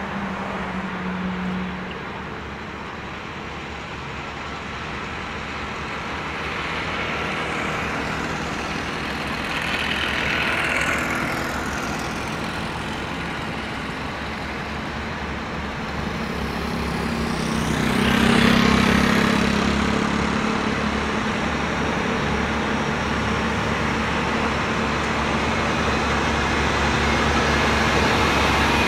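Road traffic with heavy trucks driving past: a steady road noise with engine hum that swells as vehicles go by, loudest about eighteen seconds in.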